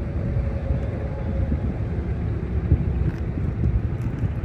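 Wind buffeting a phone microphone, a steady low rumble with no clear engine note in it.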